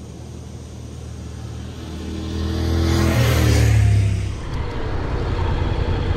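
Honda NC750X parallel-twin motorcycle engine running on the road, pulling harder and growing louder for a couple of seconds before easing off about four seconds in, with rushing wind noise.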